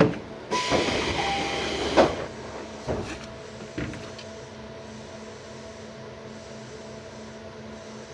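Tobu 634-series electric railcar standing at a station: a sharp thump, then a loud air hiss lasting about a second and a half, a few knocks, and after that the steady hum of its onboard equipment.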